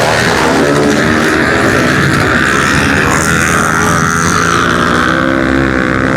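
Several pit bike engines racing together, their overlapping engine notes rising and falling as the riders accelerate and ease off.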